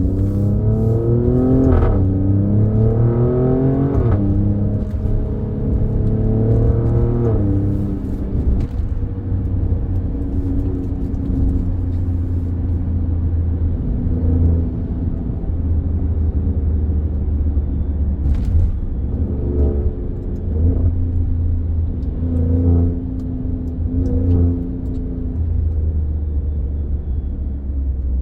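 Alfa Romeo Stelvio Quadrifoglio's twin-turbo 90-degree V6, running on its stock air filter, pulling through the gears. The revs climb and drop at each of three upshifts in the first eight seconds, then settle into a steady low drone while cruising, with a few brief rises in revs later on.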